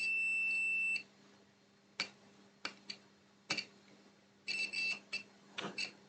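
Multimeter continuity beeper sounding one steady high beep for about a second, then a few short broken beeps later on, with several sharp clicks in between. The beep signals a dead short to ground on the PS5 mainboard's power rail.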